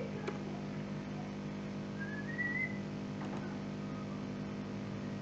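A steady low hum with a short, high, slightly rising whistle-like chirp about two seconds in, and a few faint clicks.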